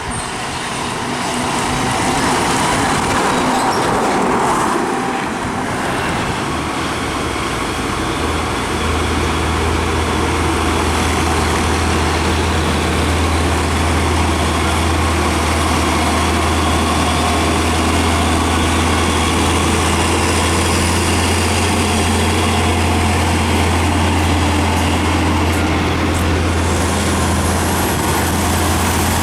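Heavy diesel truck traffic going past, engines running over a wash of tyre and road noise. About nine seconds in, a steady low engine drone comes in and holds as a heavy truck runs close by, and a faint high whine rises near the end.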